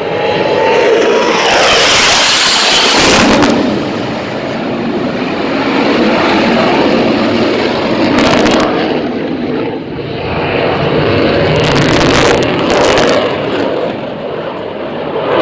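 F-16 Fighting Falcon's single jet engine running loud as the fighter flies its display. The noise swells and dips, with short harsh rushes about two seconds in, around eight seconds, and twice near twelve seconds.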